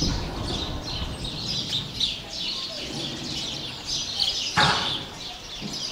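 Many small birds chirping continuously in a dense twittering chorus. A single thump sounds about four and a half seconds in.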